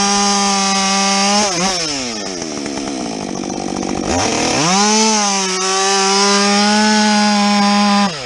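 Husqvarna 562XP two-stroke chainsaw with a modded muffler, running at high steady revs. About a second and a half in, the revs fall away and stay low. They climb back to full revs about four seconds in and hold there until near the end, where they drop again.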